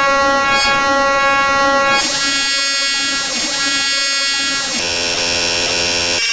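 Black MIDI noise challenge played through a SoundFont synthesizer: a loud, dense wall of huge numbers of simultaneous sustained synthesized notes, forming a buzzing cluster. The cluster changes abruptly about two seconds in and again near five seconds.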